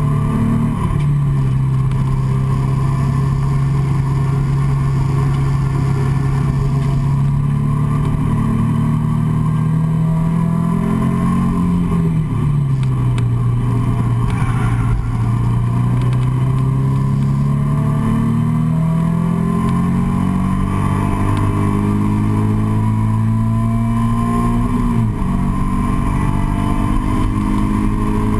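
A Nissan 350Z's 3.5-litre V6 engine, heard from inside the cabin under track driving. It holds a steady note through a corner, then pulls hard with its pitch climbing. About 25 seconds in the note drops suddenly at an upshift, then climbs again as the car keeps accelerating.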